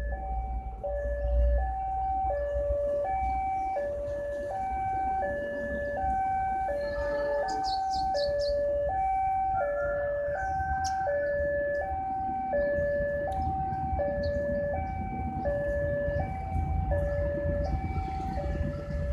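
Electronic two-tone railway level-crossing warning alarm, a higher and a lower tone alternating steadily about once every 1.3 seconds, over a low rumble.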